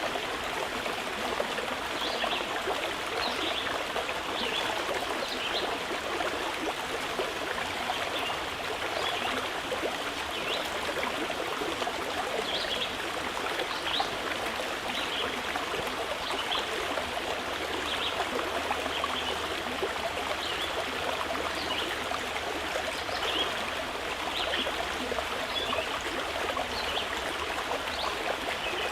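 Mountain river flowing steadily over rocks, with small birds giving short, high chirps now and then.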